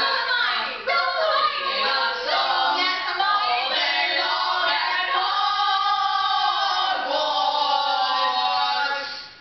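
A group of voices singing together, choir-like, with a long held chord in the middle, fading out near the end.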